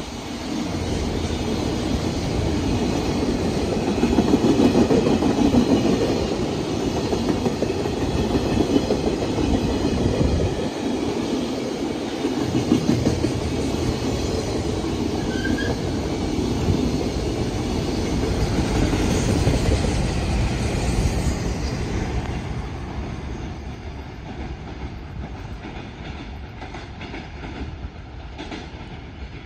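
Container freight train's flatcars rolling past at speed, the wheels clacking steadily over the rail joints, with one brief wheel squeal about halfway. The sound fades away over the last several seconds as the end of the train passes and recedes.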